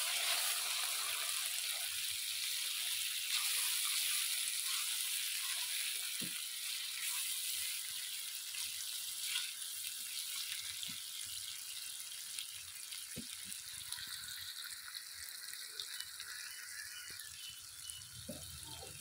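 Tomatoes, onions and ginger-garlic paste frying in hot oil in a kadai: a steady sizzle that slowly dies down, with a few soft knocks from the wooden spatula stirring.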